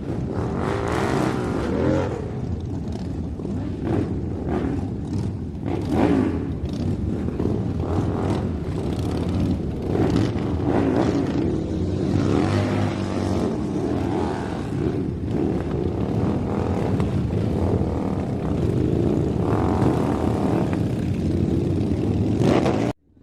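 Small electric motor of a DIY miniature model running, its pitch wavering up and down as the speed changes, with scattered clicks and scraping; it cuts off suddenly near the end.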